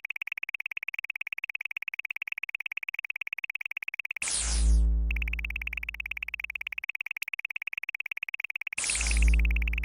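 Synthesized sound effects: a rapid, even train of high-pitched electronic beeps, broken twice by a loud, deep synth boom with a falling sweep, once about four seconds in and again near the end. The beeps stop briefly after the first boom.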